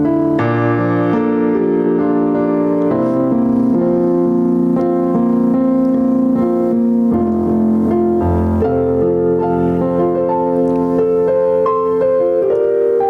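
Piano or electric keyboard playing sustained chords, the chords changing every second or so.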